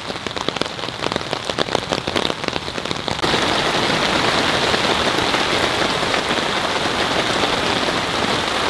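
Heavy rain falling. For about three seconds single drops strike distinctly. Then the sound steps up suddenly into a louder, dense, steady downpour hiss.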